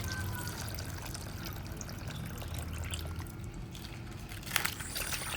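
Plastic bag crinkling and rustling as it is opened by hand, with irregular small crackles and a sharp click about four and a half seconds in.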